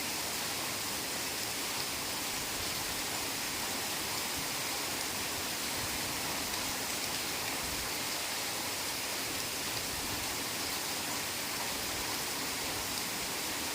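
Heavy rain falling steadily on forest foliage, a dense even hiss with no single drops standing out.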